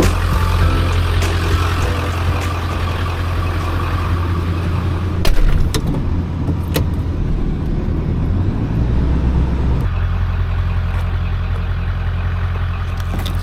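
Motor vehicle running, a steady low rumble, with a few sharp clicks or knocks about five to seven seconds in.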